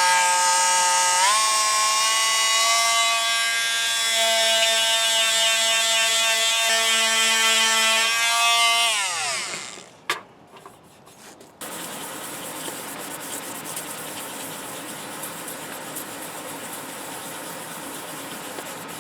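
A small electric power tool sanding body filler: its motor runs with a steady whine that shifts pitch a few times under load, then winds down about nine seconds in. After a brief pause, a quieter steady hum carries on to the end.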